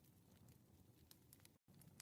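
Faint crackling of a wood fire: scattered small pops and ticks over a low rumble, cutting out completely for an instant near the end.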